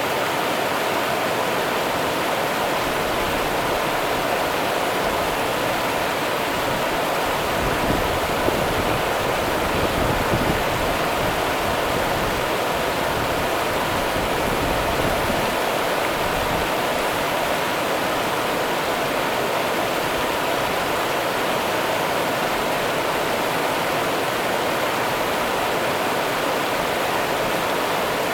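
Rio Grande river water running and rushing steadily, with a brief low rumble in the flow about a third of the way in.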